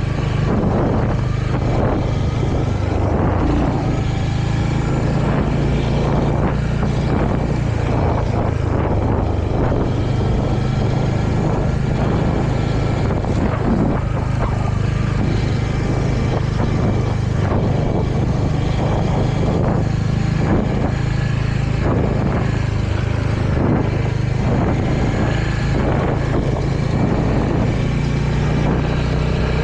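Royal Enfield Hunter 350's single-cylinder engine running steadily while riding, with no big revs or changes in pitch.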